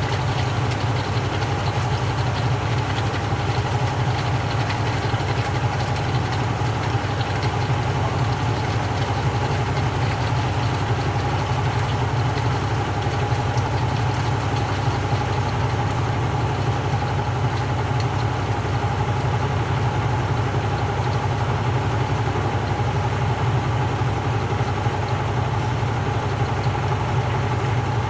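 Samsung 6.5 kg top-loader washing machine spinning steadily, with a constant low hum and a steady higher whine.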